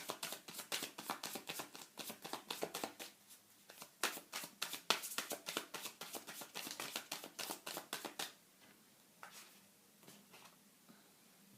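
Deck of tarot cards being shuffled by hand: a fast, steady run of card clicks that stops about eight seconds in, followed by a few faint taps as cards are laid out.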